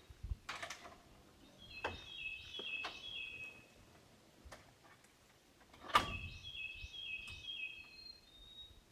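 A songbird singing two short phrases of quick high notes stepping down in pitch, a few seconds apart, with several sharp knocks, the loudest about six seconds in.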